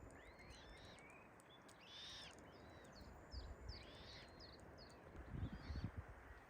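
Small songbirds singing faintly: a string of quick, bending whistled chirps over a low steady hiss. A few soft low thumps come about five and a half seconds in.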